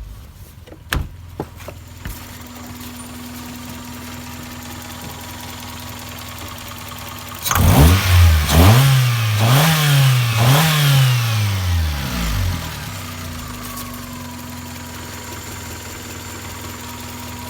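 Toyota 3S-FE 2.0-litre inline-four engine idling steadily. About seven seconds in it is revved three times in quick succession, each rev rising and falling, then it drops back to a steady idle. A few sharp clicks come near the start.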